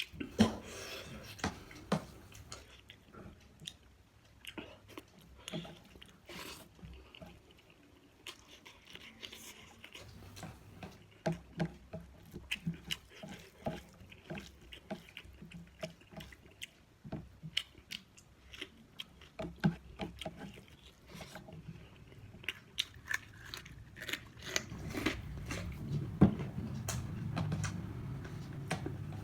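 A person chewing and biting food close to the microphone, with many irregular mouth clicks. A low steady hum comes up near the end.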